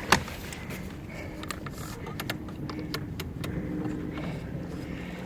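Small boat underway on a lake: a low steady motor hum that swells and fades, with scattered light clicks and knocks.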